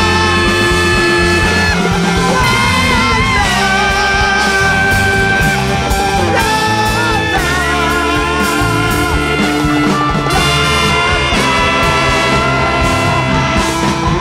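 Live music from a large free-jazz big band, loud and dense: horns hold long, wavering notes over drums, bass and guitar.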